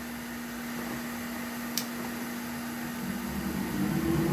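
Hot air rework station blowing: a steady airflow hiss over a constant low hum, getting louder near the end. A single sharp click about two seconds in.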